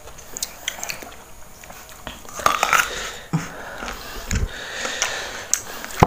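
Crisp biting and chewing of raw young timun suri, close to the microphone, with irregular crunchy clicks and a dull knock about four and a half seconds in.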